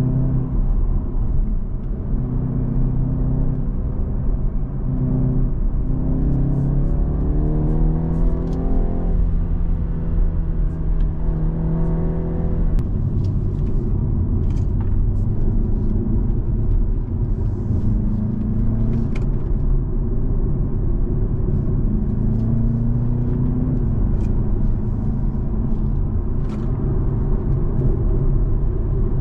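BMW's engine and road rumble heard from inside the cabin during a track lap. The engine note climbs steadily for several seconds, drops away abruptly about halfway through, then rises and falls more gently as the car slows for a corner and picks up speed again.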